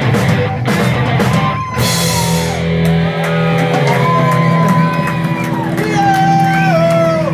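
Rock band playing live: drum hits for about the first two seconds, then a held chord with a bending, sliding melody line over it.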